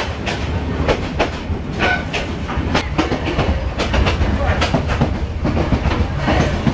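Yangon Circular Railway carriage running along the track, heard from inside: a steady low rumble with the wheels clacking and the car knocking and rattling several times a second.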